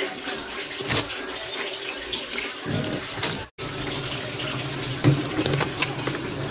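Water running and sloshing in a Whirlpool washing machine's tub. After a brief break about three and a half seconds in, the machine carries on with a steady low hum and a few knocks.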